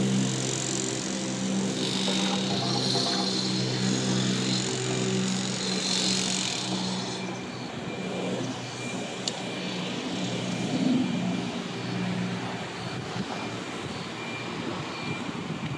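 A motor engine running with a steady low hum that fades away over the second half, with a high hiss above it early on.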